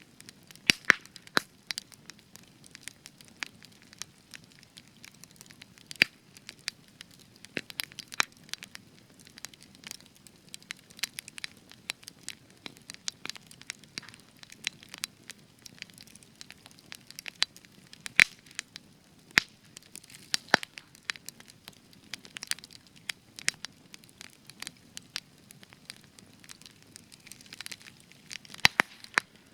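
Spruce wood campfire crackling, with frequent irregular small snaps and occasional louder pops over a faint low hiss of the flames.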